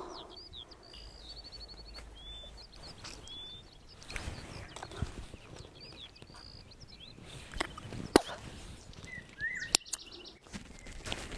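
Small wild birds chirping and calling, with short rising and falling chirps and a quick trill. Rustling and footsteps sound underneath, and two sharp snaps come about two-thirds through and again near the end.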